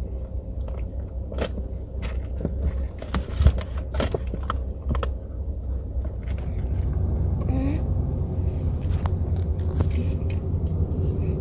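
Car on the road heard from inside the cabin: a steady low road and engine rumble that grows a little louder about halfway through. Scattered sharp clicks and knocks sound over it.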